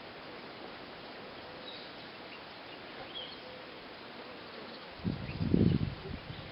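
Quiet outdoor ambience with a few faint, high bird-like chirps. About five seconds in, a loud low rumble lasts about a second.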